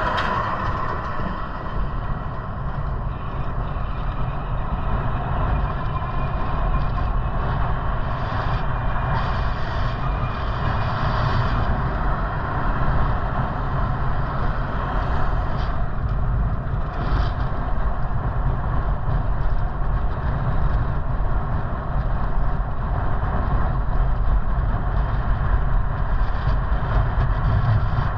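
Steady rumble of wind and tyre noise from riding an electric bike along, with no single event standing out.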